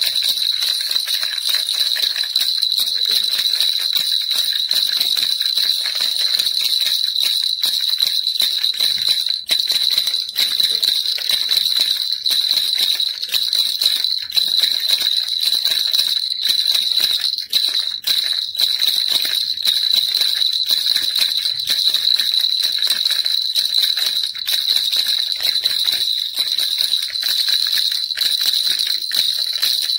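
Baby rattle shaken steadily and without pause: a dense, quick jingling of many small clicks over a high, steady ringing.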